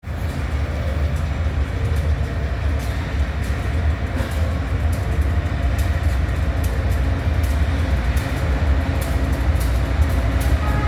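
Diesel-hauled container freight train passing close by: a steady, heavy low rumble with a few humming tones, overlaid by frequent clicks from the wheels on the rails.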